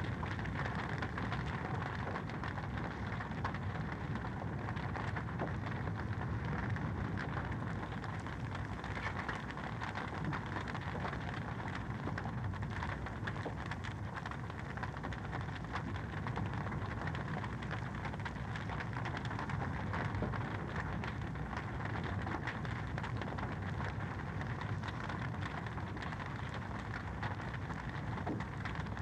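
Fireplace fire crackling: a continual run of small pops and snaps over a steady hiss.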